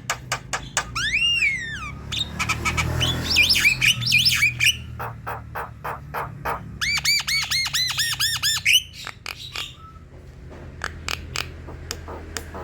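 Javan myna (jalak kebo) singing: a varied song of sharp clicks and arching whistles, with a fast run of repeated looping notes a little past halfway.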